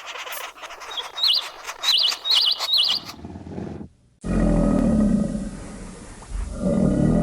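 A high, wavering chirping call repeated four times over scattered clicks. After a sudden cut, a large animal gives a deep roaring growl in two bouts.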